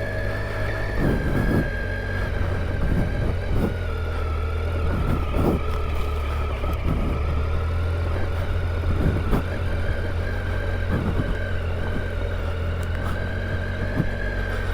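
Triumph Tiger 800 XCa's three-cylinder engine running steadily under way on a dirt trail, with a steady high whine over it and scattered knocks from the rough ground.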